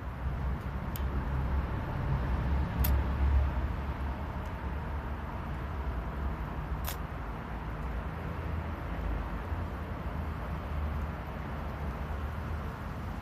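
Small wood fire burning in a compact camp stove, with a few sharp pops of crackling wood over a steady low rumble.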